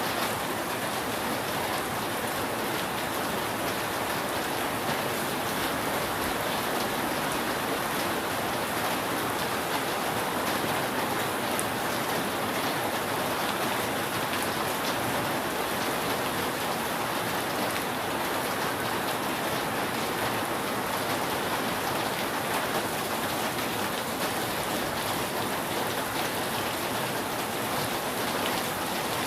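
Steady rain falling on a roof: a dense, even hiss of rain with fine scattered drop ticks, unchanging throughout.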